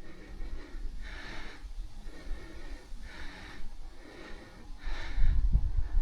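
A cyclist's heavy breathing: a noisy breath about every one to two seconds, with wind buffeting the microphone near the end.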